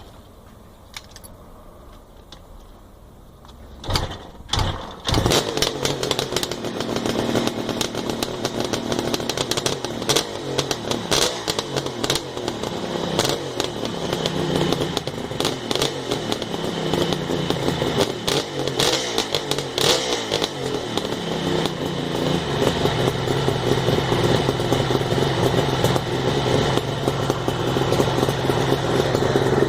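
Kawasaki H2 three-cylinder two-stroke motorcycle kick-started from cold: a couple of thumps from the kickstart, then the engine catches about five seconds in. It runs with the revs rising and falling as it is blipped while cold, and settles to a steadier idle near the end.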